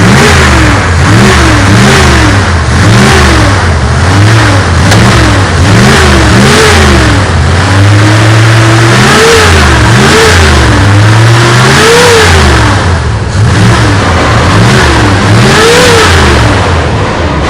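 Ford Maverick engine revved hard and loud, its exhaust note climbing and falling again and again, about once a second. Shortly before halfway it holds a steadier rev for a second or so before the blips resume.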